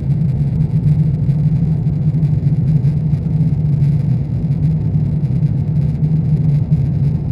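Steady engine and airflow noise inside the cabin of an Airbus A350-900 in flight, with its Rolls-Royce Trent XWB engines running. It is a constant low drone with no change.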